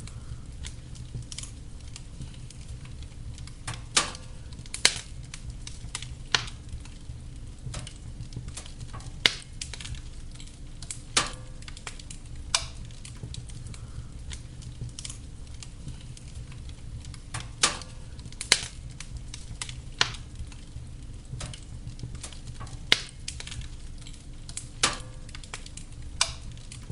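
Wood fire burning in a fireplace: a steady low rumble of the flames with sharp, irregular crackles and pops, about a dozen loud ones scattered through.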